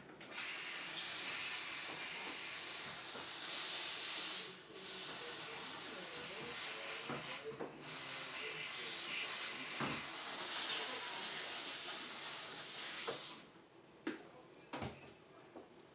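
A steady hiss lasting about thirteen seconds, breaking off briefly twice, then stopping and giving way to a few light clicks and knocks.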